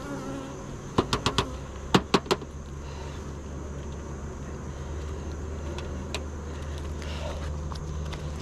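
Two quick runs of sharp clicks or knocks about a second in, four and then three in close succession, over a steady low hum that grows stronger from about three seconds in.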